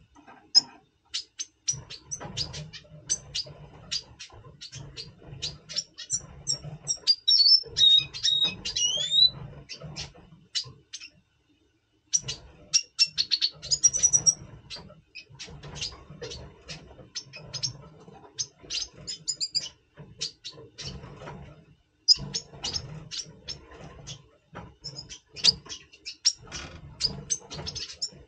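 Red siskins calling in breeding condition: a rapid run of short, sharp, high chirps and twitters, with a few quick sweeping notes about eight to nine seconds in. A low background rumble runs underneath, and the calls pause briefly twice.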